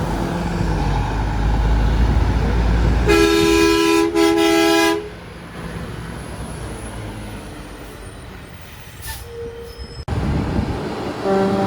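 A semi truck passes with a loud engine rumble and gives two blasts on its air horn about three seconds in: a chord of two close notes, the second blast following at once. After that the truck noise fades to steady road noise.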